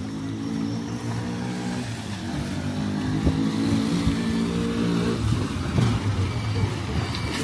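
A motor vehicle's engine running steadily at low revs, slowly getting louder; its even note breaks up about five seconds in, leaving a rougher low rumble.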